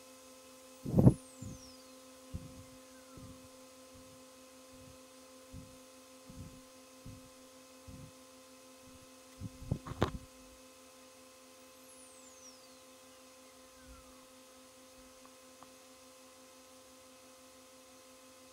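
Faint test tone sweeping downward in pitch from very high to mid-range, twice, during a high-to-low frequency-response sweep of a Denon DR-M44 cassette deck, over a steady electrical hum. Dull low thumps break in, loudest about a second in and again in a cluster near ten seconds.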